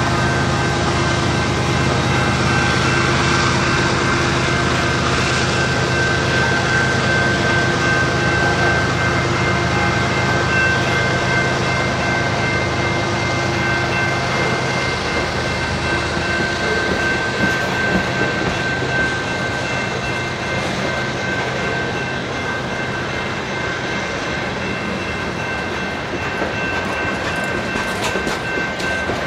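Covered hopper cars of a mixed freight train rolling past close by at a grade crossing, wheels clattering over the rails. A low engine rumble from the departing locomotives fades out about halfway through, while the crossing bell keeps ringing with a steady tone.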